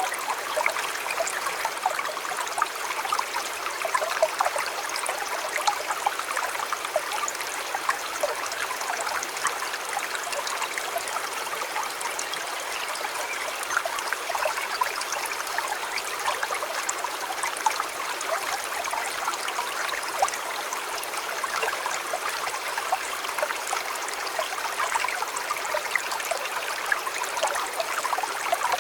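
Shallow river flowing steadily, a continuous babbling and trickling of water over stones.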